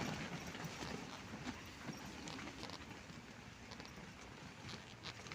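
Strong wind buffeting a tent, heard from inside: the fabric walls and door flapping and rustling, with scattered small taps and knocks.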